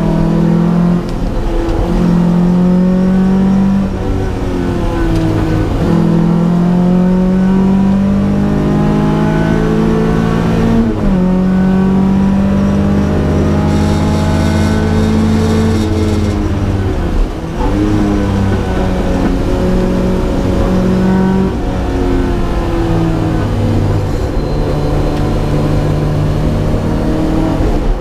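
Datsun P610 rally car's four-cylinder engine being driven hard. Its pitch climbs steadily and falls back sharply again and again as it shifts gear or lifts off.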